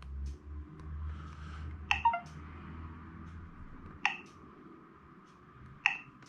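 Xgody truck sat nav's touchscreen key beeps as menu options are tapped: a quick double beep about two seconds in, then single short beeps about two seconds apart.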